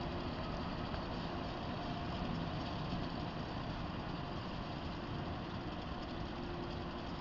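Steady low rumble of a SEPTA push-pull train with an AEM-7 electric locomotive moving slowly away, with a faint steady hum over it. It eases off slightly near the end.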